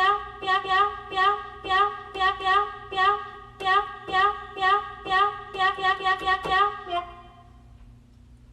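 A woman's voice singing 'meow' over and over at the same pitch, about eighteen quick notes at an uneven rhythm, stopping about seven seconds in.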